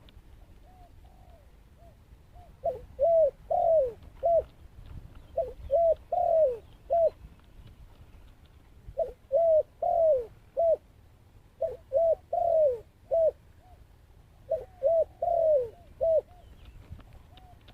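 Zebra dove cooing: five loud phrases of quick, short coos, each phrase about two seconds long and repeated about every three seconds, with fainter coos in between.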